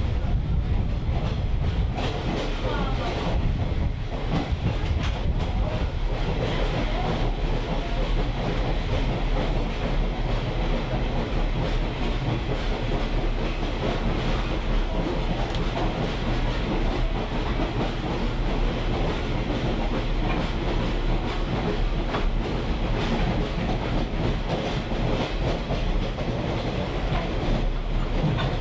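Railroad caboose rolling along the track, heard on board: a steady rumble with the clickety-clack of wheels over rail joints.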